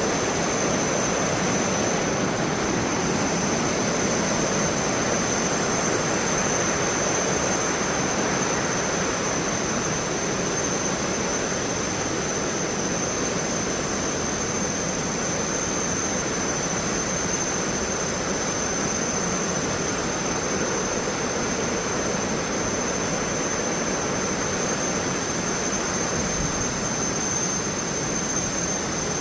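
Steady rushing of the Ewaso Narok river's white water just below Thomson's Falls, an even, loud noise of falling and churning water. A thin, steady high whine sits above it.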